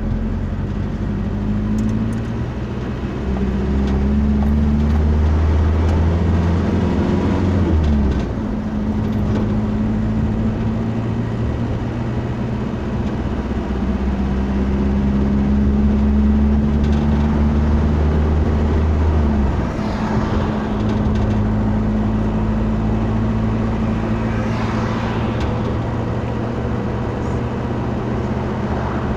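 Motor vehicle engine running on the road, with tyre and road noise. The engine note cuts off and picks up again twice, about 8 and 19 seconds in, as if changing gear.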